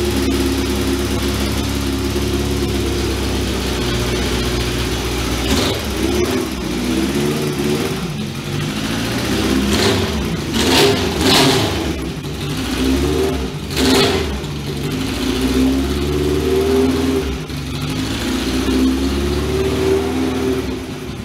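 Motorcycle engines running, their pitch rising and falling as they are revved, with a few louder surges about ten to fourteen seconds in.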